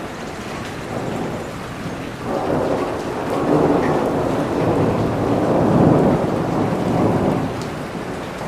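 Steady rain falling, with a long roll of thunder that swells about two seconds in, peaks around six seconds and fades away near the end.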